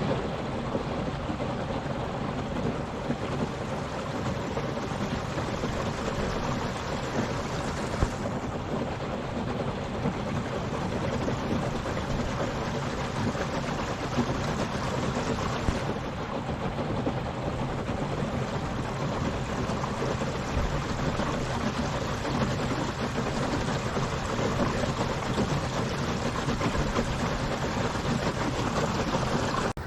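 Steady rush of water along the hull of a small boat under way on a Torqeedo electric outboard, with a faint steady low hum underneath.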